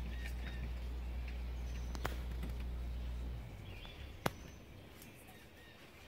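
Birds chirping briefly now and then over a low steady rumble that drops away about three and a half seconds in, with two sharp clicks, one in the middle and one just after the rumble fades.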